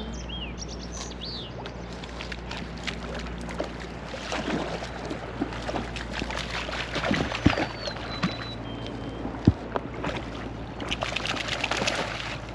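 Lake water splashing and sloshing in irregular bursts, with a few louder splashes. A bird gives short whistled chirps at the start and again a little past the middle.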